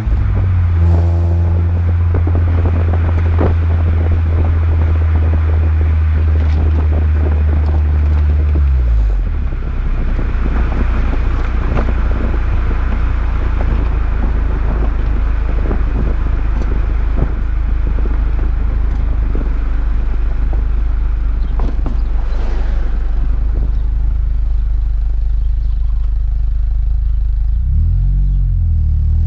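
2003 Honda Civic Si's 2.0-litre four-cylinder running through a test pipe with resonator, shorty headers and a resonated catback exhaust at a steady low drone. About nine seconds in, the pitch drops and holds lower. Near the end it climbs again as the revs rise.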